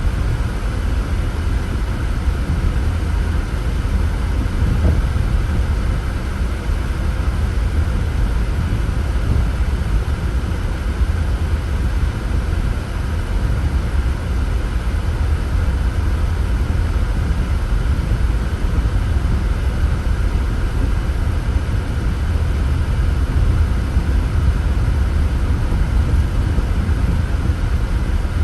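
Steady rumble of a car being driven along a road: tyre and engine noise, strongest in the low end, with no sudden events.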